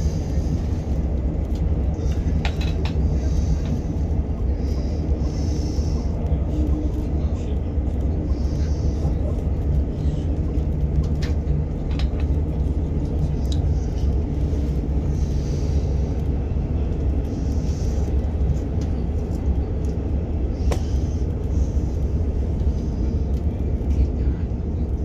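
Inside a moving passenger train: a steady low rumble of the wheels and running gear on the track, with occasional sharp clicks.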